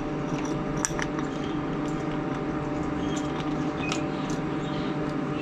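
Steady machine hum holding several pitches, with a few light metal clinks and ticks scattered through.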